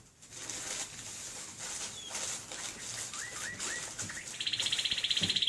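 A small bird calling: three short chirps, then a fast trill that starts near the end and grows louder.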